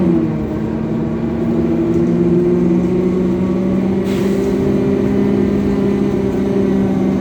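Scania coach's diesel engine running steadily under way, a low, even drone with road rumble, with a brief hiss about four seconds in.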